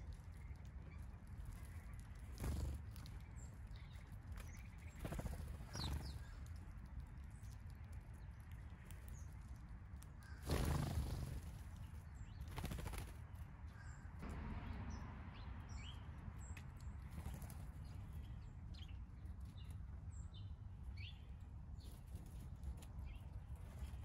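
Small backyard birds at a feeder: several brief wing flutters as birds come and go, the loudest about ten seconds in, with short high chirps scattered through, mostly in the second half.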